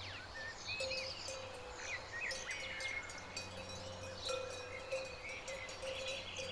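Small birds chirping and whistling in many quick, short notes over a steady low hum and a faint held tone that pulses on and off.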